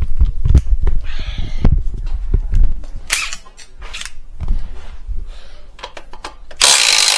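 Hand tools working on steel engine-mount bolts: repeated metallic knocks, clicks and thumps from a socket and wrench, with short scraping bursts and one louder burst of noise a little before the end.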